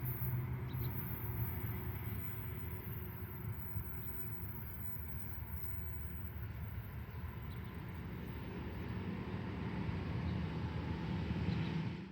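A train running by, with a steady low rumble and rail noise that swells near the end and then cuts off suddenly.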